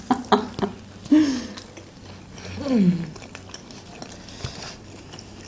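People chewing and biting into kutab, thin flatbreads rolled around a herb filling, with soft wet mouth noises and a few sharp clicks of bites in the first half-second. Two short hums falling in pitch come about a second in and about three seconds in.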